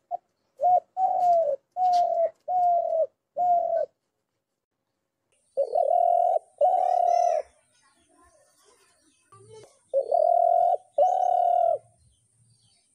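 Dove cooing: a run of five quick, low coos, then two pairs of longer, drawn-out coos with pauses between them.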